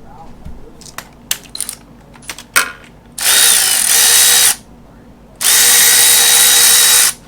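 Handheld power tool running in two short bursts of about one and a half seconds each, spinning out a 10 mm bolt at the base of an engine wiring harness, after a few light tool clicks.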